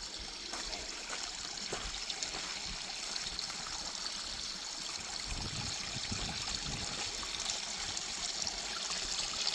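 Creek water running and trickling over rocks at a small waterfall: a steady rush of water.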